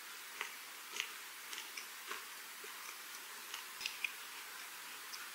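Quiet chewing of a mouthful of laver, kelp and herring gwamegi wrap: soft, scattered mouth clicks.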